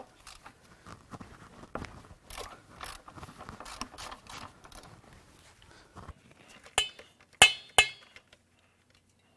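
Hand tools clicking and rattling against metal while the engine's oil drain plug is being loosened, with three sharp metallic clinks near the end.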